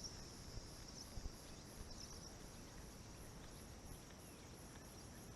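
Insects singing: a faint, steady high-pitched buzz with a pulsing chirp above it, about two pulses a second.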